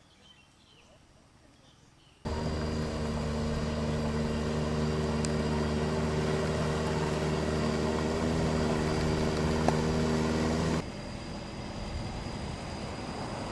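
A vehicle engine running at a steady speed, starting abruptly about two seconds in and cutting off sharply near the end, leaving a quieter steady rumble.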